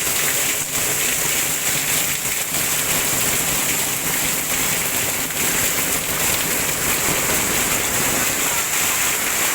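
Heavy rain falling steadily: a dense, even hiss with no break.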